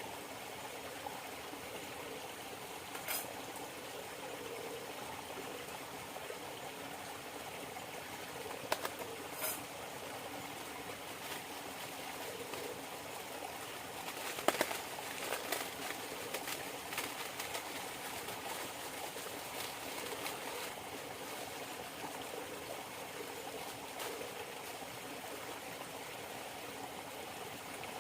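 River water running steadily, with a dove cooing now and then. A few short sharp clicks or knocks come in the first half.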